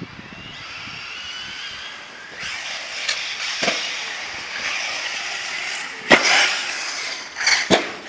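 Electric RC car running, its motor whining and rising in pitch at first, then a steady rushing hiss with several sharp knocks.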